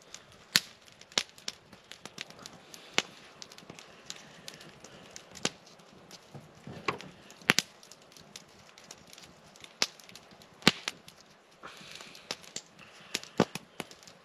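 Wood campfire crackling, with irregular sharp pops and snaps, some much louder than the rest.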